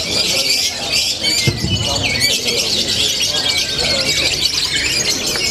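Many lovebirds chattering and singing at once: a dense, unbroken mass of high chirps, trills and squawks.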